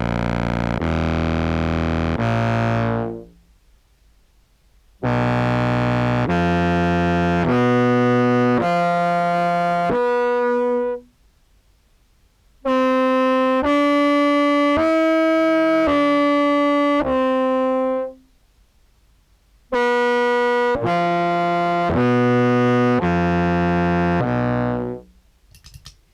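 Sampled contrabass clarinet playing sustained single notes one after another, stepping through its range from the sub-bass into the low mids, in four phrases with short pauses between.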